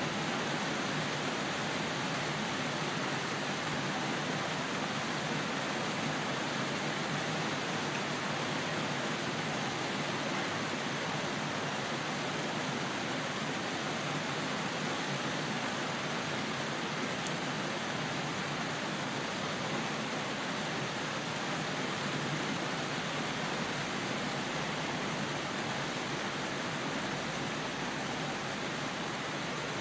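Steady rain: a constant, even hiss with no separate drops or thunder claps standing out.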